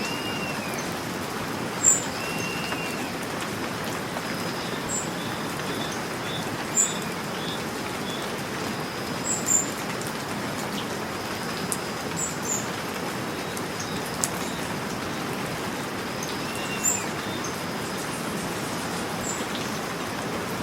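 Steady rain falling, with small birds chirping now and then over it: short sharp high chirps and a few brief arching calls.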